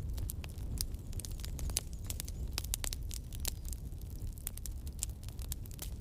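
Wood campfire burning, crackling and popping with irregular sharp snaps over a steady low rumble of flame.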